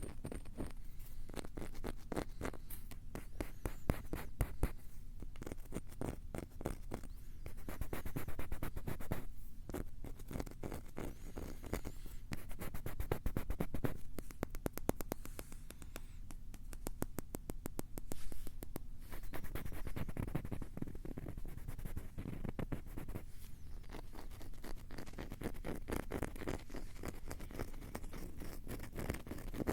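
Rapid, close-miked ASMR scratching and tapping, a dense run of quick scratches and clicks with a few louder flurries.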